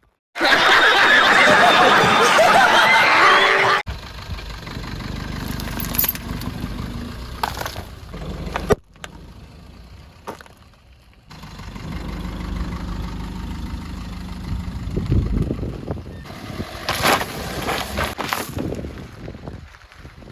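Car engine running at low speed as the car rolls, with several sharp cracks and crunches of clay pots breaking under the tyres. The sound opens with a loud few-second burst of noisy sound with wavering tones, and the rumble is cut off for a couple of seconds in the middle.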